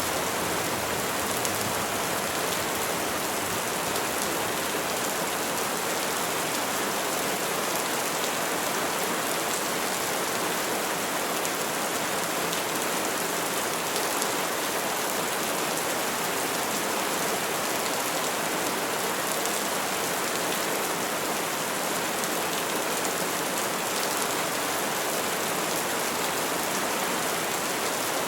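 Steady rainfall on trees and foliage, a dense even hiss of many drops with no thunder.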